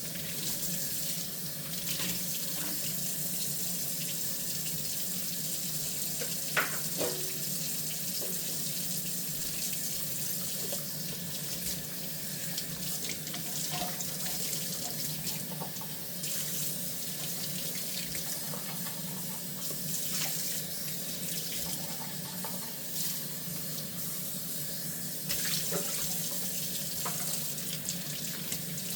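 Kitchen faucet running steadily into a sink while dishes are washed by hand, with occasional light clinks of dishware, the sharpest about six seconds in.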